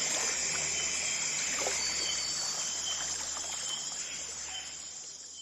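Rainforest ambience: a dense, steady high-pitched chorus of insects with short repeated chirps, slowly fading out toward the end.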